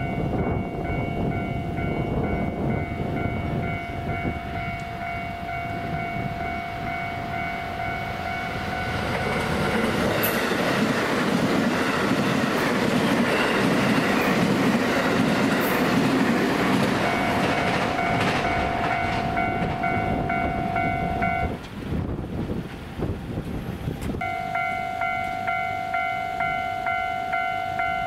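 JR West 223 series electric train running through the station at speed. Its rush of wheel and rail noise builds about ten seconds in, peaks, and dies away about twenty seconds in. A warning bell rings in steady pulses around it, stops for a couple of seconds after the train has gone, then starts again.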